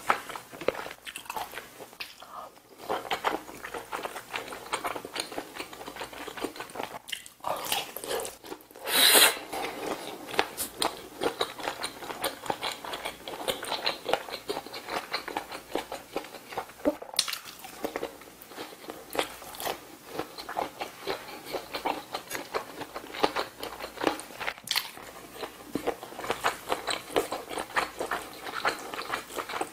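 Close-miked eating: wet chewing and mouth smacks on braised kimchi stew with sausage and pork belly, irregular and continuous. A loud noisy burst lasts about a second around nine seconds in, and a few sharp single clicks come later.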